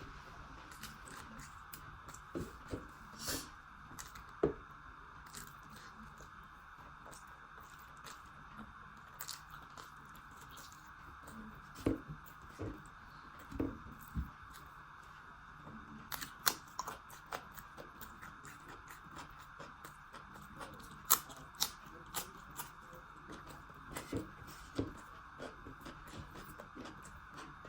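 Close-up eating sounds: chewing and crunching of food, with irregular sharp clicks and smacks, a few of them loud, over a steady background hiss.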